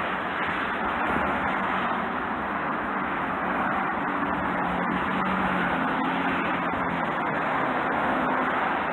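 Steady outdoor background noise, a continuous rush with a faint low hum through the middle seconds.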